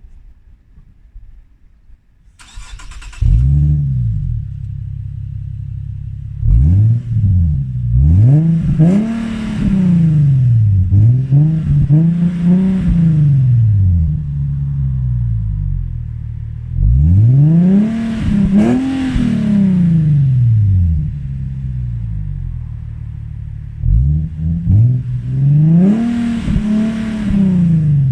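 Nissan Fuga (Y51) engine heard through its one-off Sense Brand rear muffler: the starter cranks briefly about three seconds in, the engine catches and settles to idle, then it is revved again and again, each blip rising and falling in pitch with steady idle in between.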